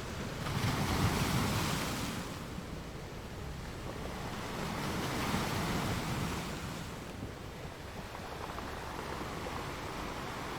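Ocean waves breaking and washing on the shore, two swells of surf about a second in and again around five seconds, over a steady wash of sea noise.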